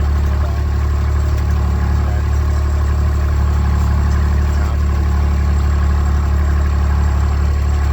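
Engine of a Kubota utility vehicle running steadily at a slow crawl, a constant low hum with no change in speed.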